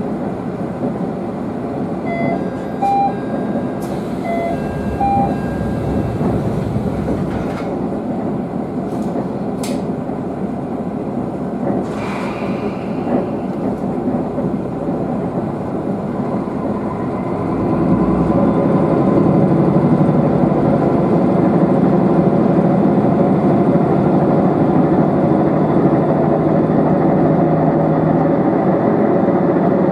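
Diesel railcar of the Nishikigawa Railway running, heard from on board: a steady rumble of engine and wheels on rail, with a few sharp clicks in the first half. A little past halfway it grows louder and a steady engine hum comes in.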